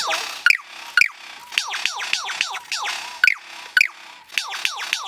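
A bird calling in a rapid series of sharp, squeaky notes that fall in pitch, with louder paired notes near the start and again about three seconds in.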